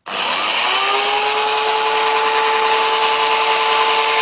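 Interskol PTs-16/2000T electric chainsaw switched on and running with no load. It starts suddenly, its whine rises in pitch as the motor and chain spin up over about a second, then it holds a steady, loud whine with chain rattle.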